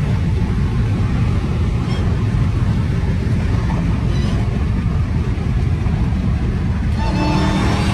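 Dodge Charger Hellcat's supercharged 6.2-litre HEMI V8 running, with a Legmaker carbon cold-air intake: a loud, steady, deep rumble.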